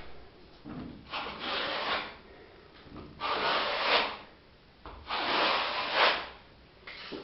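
Three scraping, rubbing sounds, each about a second long and about two seconds apart.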